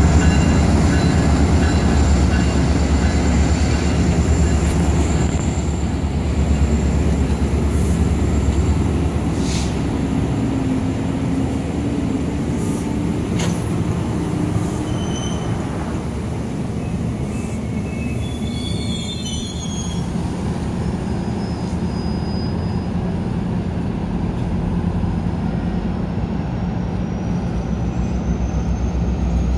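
MARC commuter train of bilevel coaches behind diesel locomotives rolling past: a steady rumble of wheels on rail with a few sharp clicks, and short high wheel squeals about two-thirds of the way through.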